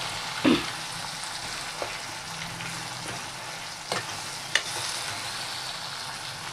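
Chicken, onions and spices sizzling in a kadhai as a metal spatula stirs and scrapes them, with a few sharp knocks of the spatula on the pan, the loudest about half a second in.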